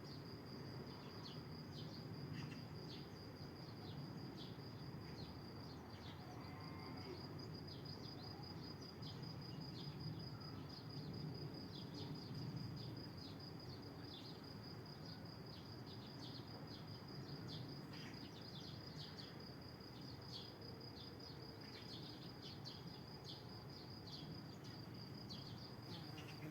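Faint outdoor ambience: an insect's steady high-pitched trill runs throughout, with frequent short bird chirps over it and a low rumble underneath.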